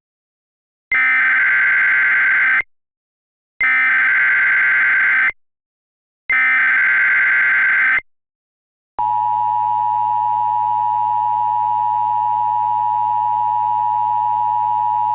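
Emergency Alert System alert: three bursts of the SAME digital header, a harsh data screech with short pauses between them, then about nine seconds in the steady two-tone EAS attention signal starts and holds.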